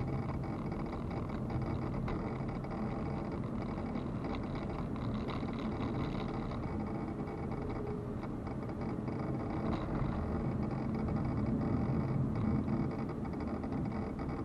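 A car driving, with steady engine and road noise that swells a little about ten to thirteen seconds in.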